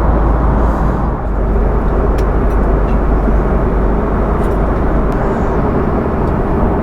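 Steady roar of an airliner cabin in flight, engine and air noise, with a faint steady hum and a few faint ticks.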